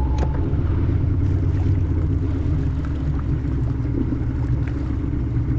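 Outboard motor of a small fishing boat running steadily, a low even drone.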